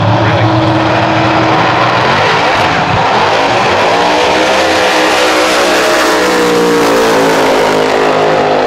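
A drag-racing car's engine running hard and loud, its pitch sliding up and down through the run.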